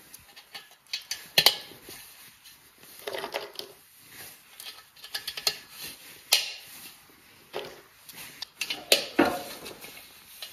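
Irregular clicks and knocks of small hard parts handled and pressed together: clips being snapped into the holes of guardrail pieces during assembly, with a few sharper knocks about a second in and near the end.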